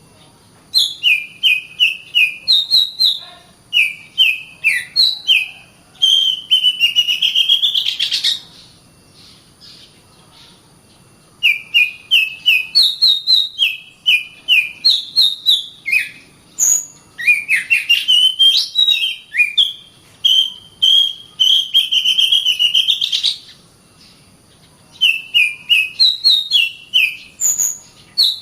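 Oriental magpie-robin singing in full, dense song: bouts of quick repeated high chirps, each bout running into a long harsh buzzy phrase, with two short pauses between bouts.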